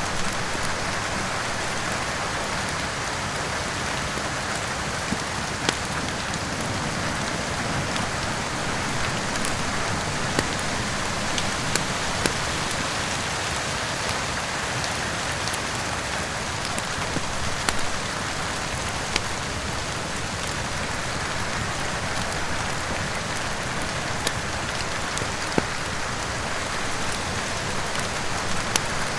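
Steady rain falling, with sharp pops of a crackling wood fire in a fireplace scattered irregularly through it.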